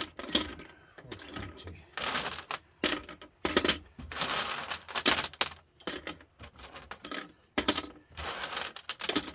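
Scrap copper pieces clinking and clattering as they are handled and dropped into a pile: a string of short, irregular metallic rattles with brief quiet gaps between them.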